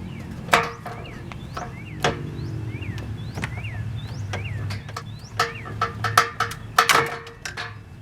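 Tools and parts knocking and clattering during radiator removal: a string of sharp, irregular knocks, bunched together near the end, over a steady low hum and short repeated chirps.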